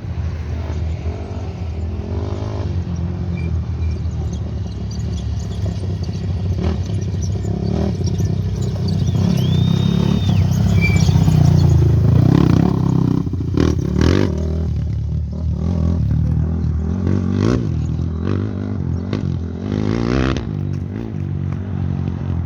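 Off-road race motorcycle going by on a dirt course: engine noise building to its loudest about halfway through, then fading, with scattered clattering knocks.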